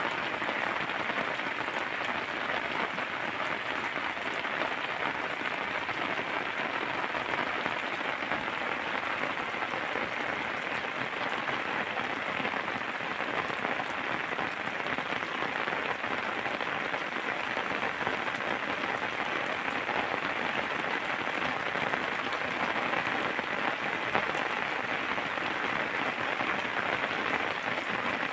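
Heavy rain falling steadily, an even hiss of drops without let-up.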